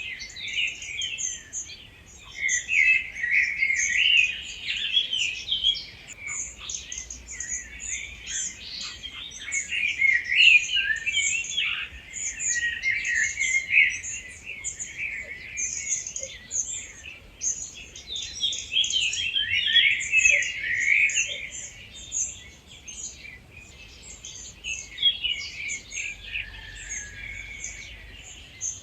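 Dawn chorus of several wild bird species singing at once: dense, overlapping warbles, trills and high chirps, with no pause.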